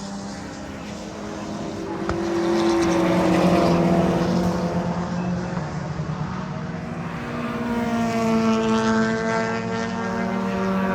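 Race car engines passing on the circuit: one car swells past about three seconds in, and another builds from about seven seconds in, its engine note rising as it accelerates.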